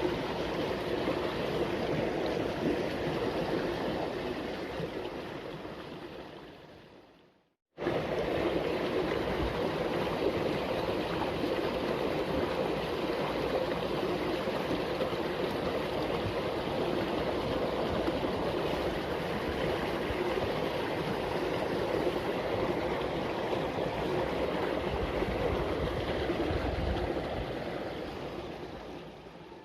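Water running steadily in a small irrigation ditch, an even rushing noise. It fades away to silence about seven seconds in, then comes back suddenly at full level.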